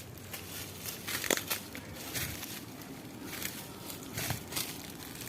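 Footsteps crunching through dry leaves and twigs on a forest floor, irregular crackling steps with a sharper snap about a second in and another near four seconds.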